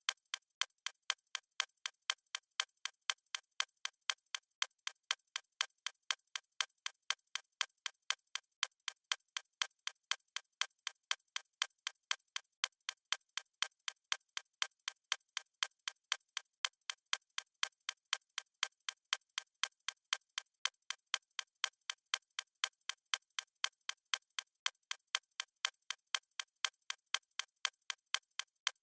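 Stopwatch ticking sound effect: rapid, evenly spaced clock ticks, crisp and light with no low end, keeping a steady pace throughout.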